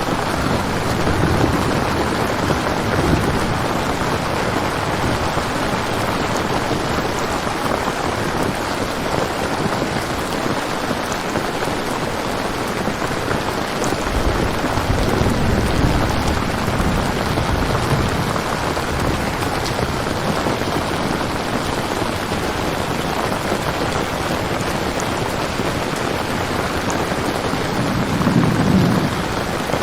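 Steady rain falling, with low rolls of thunder swelling about a second in, around the middle, and again near the end.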